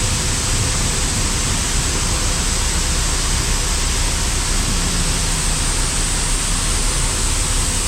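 Grain truck dumping its load of shelled corn, heard as a loud, steady rushing noise without a break.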